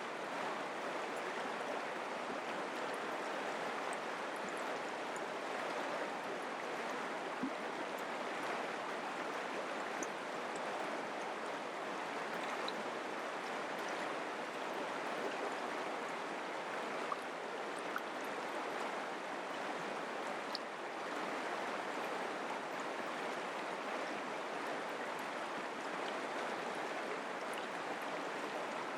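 Mountain creek water rushing steadily over rocks, with a few faint small splashes.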